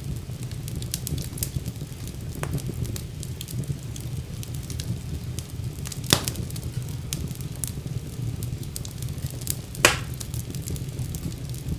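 Fire burning in a fireplace, crackling steadily with many small snaps over a low rumble. Two louder pops come about six and ten seconds in.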